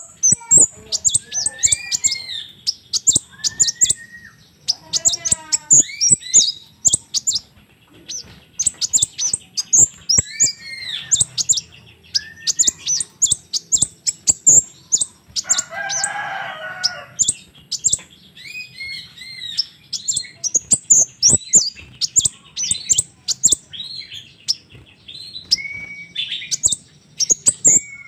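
Crimson sunbird chirping in rapid runs of short, very high-pitched notes, with a few lower sliding notes and a harsher, rasping call about halfway through.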